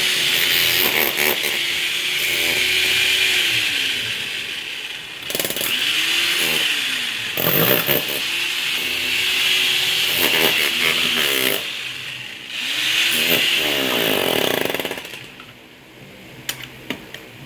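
A power tool's motor run up to speed and let wind down about four times, each run lasting one to three seconds, with a high whirring noise; it stops near the end.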